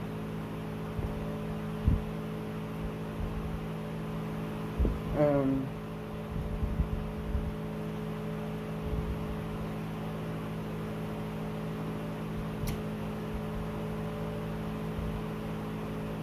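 A person chewing a mouthful of spaghetti: soft, irregular mouth sounds over a steady low electrical hum. There is a single low thud about two seconds in and a short hummed voice sound about five seconds in.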